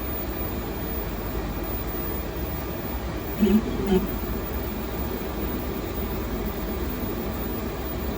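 Continuous-fibre (CFF) 3D printer running mid build: a steady mechanical hum with fan noise, and two short whining tones about three and a half and four seconds in as its motors drive a quick move.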